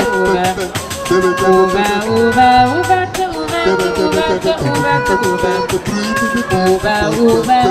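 Vocal improv group singing: several voices hold and shift sustained notes in layered harmony over a quick, steady percussive pulse.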